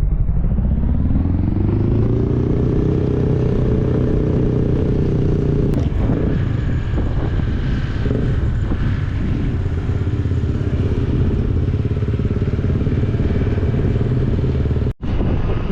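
Motorcycle engine rising in pitch as it accelerates over the first couple of seconds, then running steadily at cruising speed with a constant low rumble. The sound cuts out for an instant near the end.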